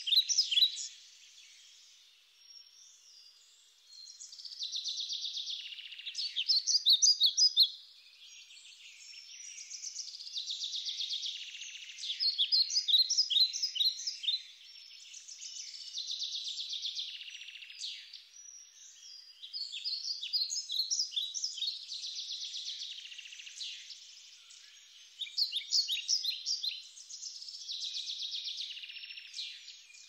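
Birds chirping and twittering in repeated bouts a few seconds apart, high-pitched with no low sound beneath.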